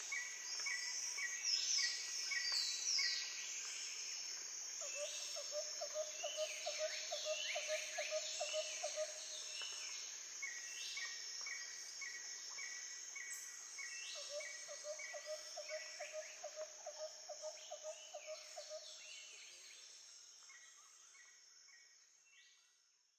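Nature ambience of birds calling with short falling chirps and runs of quick repeated notes over a steady high insect drone, with a lower rapid trill heard twice; it fades out near the end.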